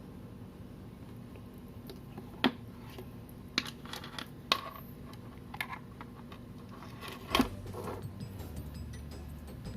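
Sharp clicks and light taps of small hard parts being handled, about six separate clicks spread over several seconds, one of the loudest about two-thirds of the way through.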